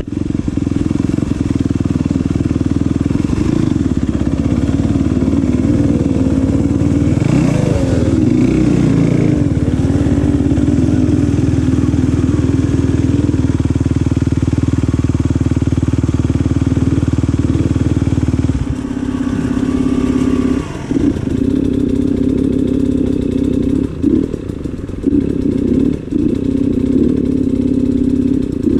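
Off-road enduro motorcycle engine running hard at high revs, with the pitch swinging up and down a few seconds in; from about two-thirds of the way through the throttle is opened and closed in short bursts.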